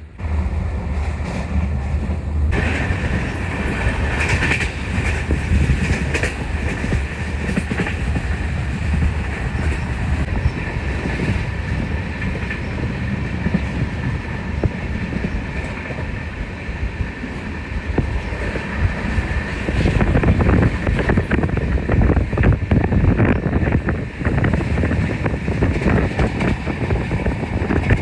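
Passenger train running along the rails: a loud, steady rumble of wheels and carriages with rattling wheel noise. It starts abruptly and grows a little louder later on.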